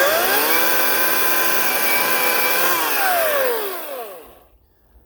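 Ryobi 18-inch electric chainsaw's motor spinning up with a rising whine, running at steady speed for about three seconds, then winding down with falling pitch until it stops about four seconds in.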